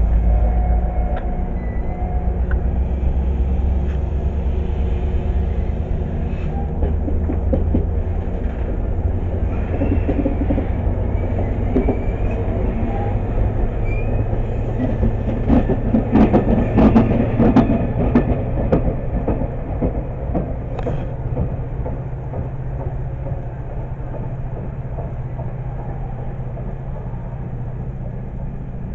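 Train running past on the rails with a steady low rumble. A cluster of wheel clicks and knocks is loudest about 16 to 18 seconds in, and the sound then slowly fades.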